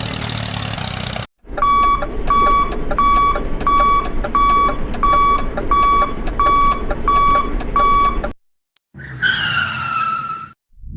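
Electronic beeper sounding about eleven short beeps at an even pace, a little faster than one a second, over a steady rumbling noise; near the end a short tone falls in pitch.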